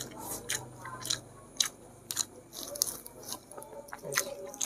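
Close-miked wet chewing and lip-smacking of someone eating gulai kepala kambing (goat-head curry) with rice by hand: a quick, irregular series of sharp mouth clicks, about three a second.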